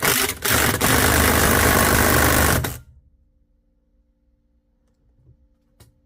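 Impact wrench hammering, loosening a fastener on a Polaris Sportsman 850 engine during teardown: a short burst, then a steady run of nearly three seconds that stops abruptly.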